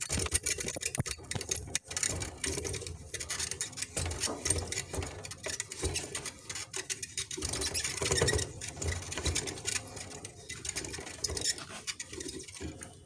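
Rapid, irregular clicking and clatter of metal tools working on a tractor drag link.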